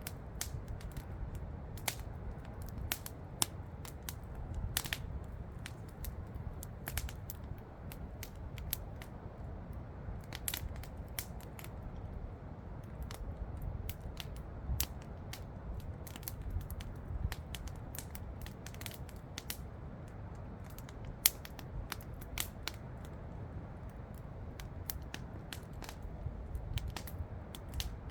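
Campfire crackling, with irregular sharp snaps and pops over a steady low rumble; one louder pop about two-thirds of the way through.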